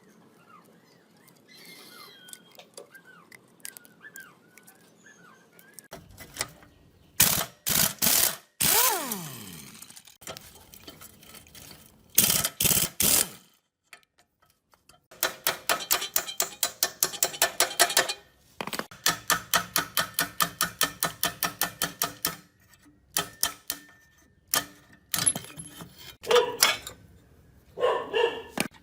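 Hand work on metal engine parts: a string of sharp metal clinks and knocks, one left ringing with a falling tone, then two long runs of quick even strokes at about six a second, like a ratchet or a brush worked back and forth.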